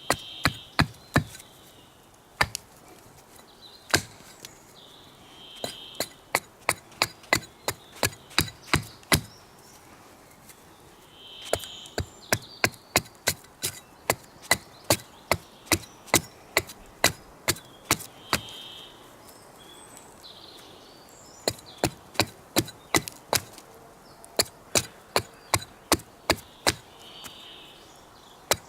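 Wood being chopped, likely kindling for a campfire: runs of sharp, separate strikes about two to three a second, broken by short pauses. A bird calls briefly now and then.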